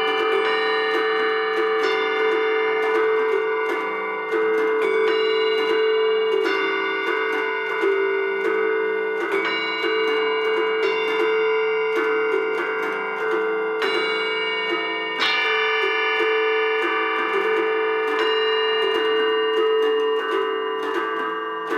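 Meteorphonium mechanical percussion machine playing: solenoid strikers tick on tuned metal percussion, whose notes ring on and overlap over a steady held drone note.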